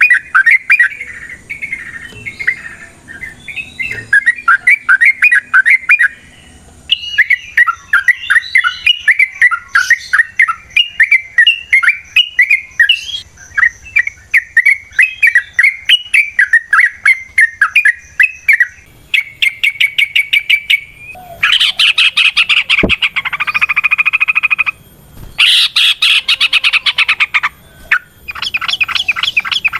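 Yellow-vented bulbul (trucukan) singing long, rapid, chattering phrases of quick rising and falling notes. About two-thirds of the way in, these give way to louder, harsher buzzing rattles in bursts of a few seconds each, the agitated 'ropel' song.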